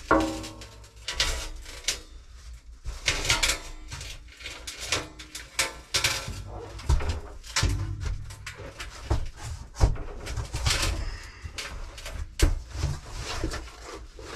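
Irregular knocks, clunks and scrapes of hands-on plumbing work, with a brief falling squeak right at the start.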